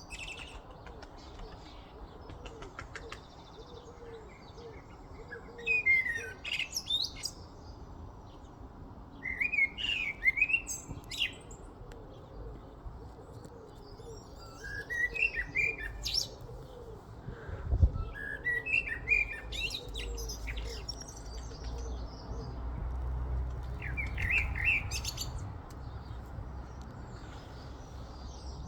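A songbird singing short phrases of sliding chirps and whistles every few seconds, phrases that mimic a car alarm.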